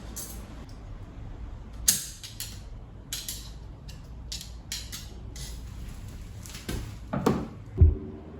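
A run of separate clicks, clinks and knocks of objects being handled, with a sharper knock about two seconds in and a louder one near the end.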